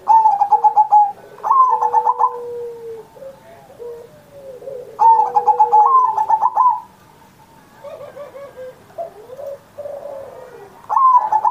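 Zebra dove (perkutut) cooing in phrases of rapid, stuttering notes: two phrases at the start, another about five seconds in, and one beginning at the very end. Softer, lower drawn-out cooing fills the gaps between them.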